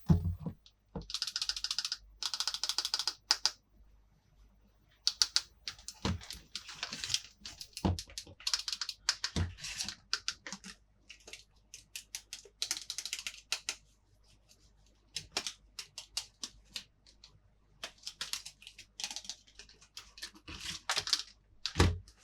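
Close-up handling of a plastic toy playset and its packaging: irregular taps and clicks of plastic pieces, broken by bursts of rustling lasting about a second each.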